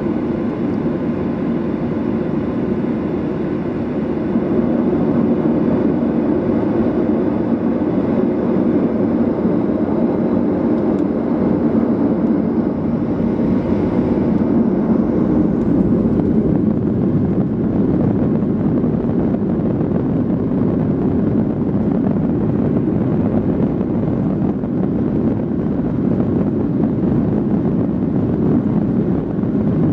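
Boeing 737-800 engines and airflow heard from inside the passenger cabin during departure: a steady, loud noise that grows a little louder about four seconds in.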